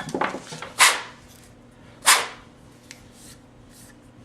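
Two short scraping rubs about a second apart as the chainsaw's guide bar is handled to be fitted back on, with a few light handling knocks around them.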